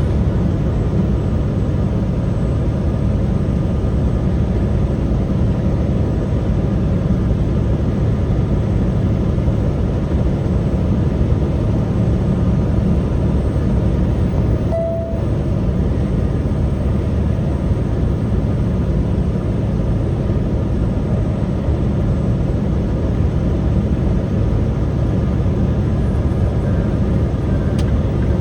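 Truck engine and road noise, a loud steady low rumble without change, with one short tone about halfway through.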